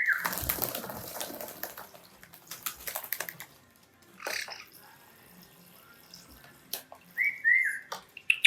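Water running or splashing for about two seconds, then a few scattered light knocks and a quiet stretch. About seven seconds in come two short, high, whistle-like tones.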